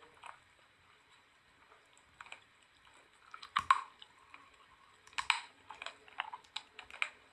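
Close-up crunching and chewing of soap: irregular crisp snaps and crackles, with the loudest bites about three and a half and five seconds in.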